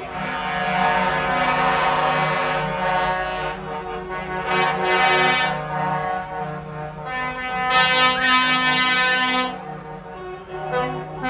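Horns sounding in long held blasts over the engines of passing tractors.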